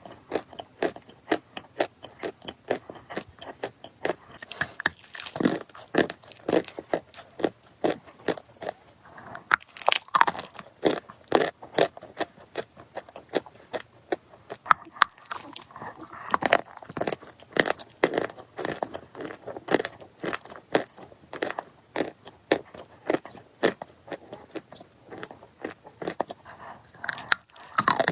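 Dry clay crunching and crumbling in a close, dense run of sharp irregular crackles, several a second.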